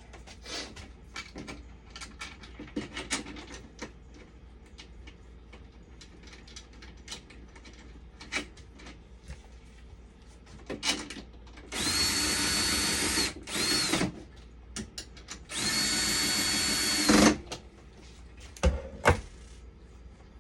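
Power drill-driver running in three bursts, the middle one short, each with a steady whine that spins up and winds down. Before them, scattered small clicks and knocks of handling.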